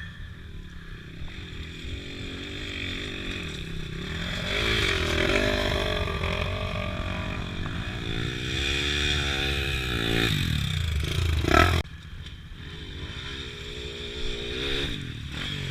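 Motorcycle engine revving up and down in repeated surges while climbing rough ground, with a sharp knock about twelve seconds in, after which the engine note drops away. There is a low rumble of wind throughout.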